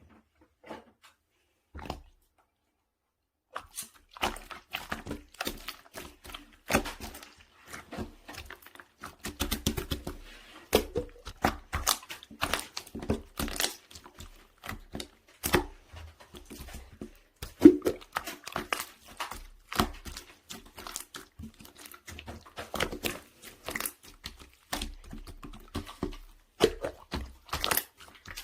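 Soft, jiggly pudding-jelly slime being squished and pressed by hand, making a dense, irregular run of wet clicks and pops. The run starts about three and a half seconds in, after a near-silent start.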